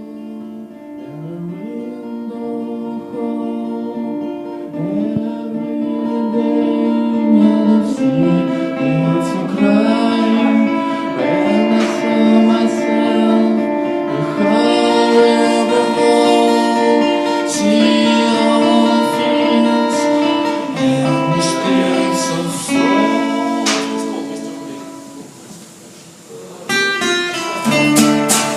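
Acoustic folk song: a sung melody over acoustic guitar, swelling in from a quiet start. Near the end it drops low, then rapid strummed guitar chords come in.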